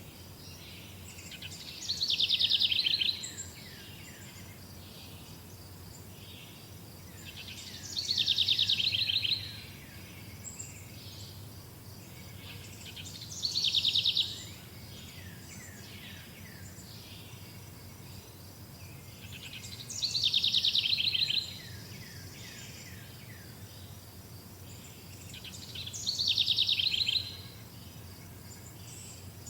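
A songbird singing the same short song five times, about every six seconds: a quick run of falling notes that ends in a fast trill, over a steady faint background hiss.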